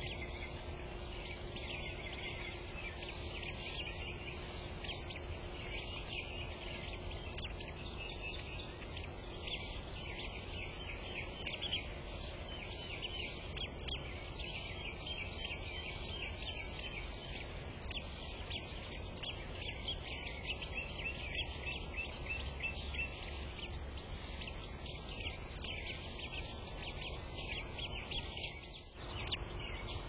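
Birds chirping: a dense, continuous stream of short high chirps, over a steady low hum and a faint background rumble.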